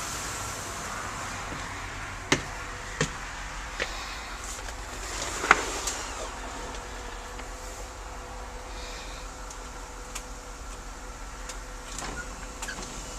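Steady mechanical hum from the Blue Bird Handybus school bus, with a few sharp clicks and a louder clack about five and a half seconds in.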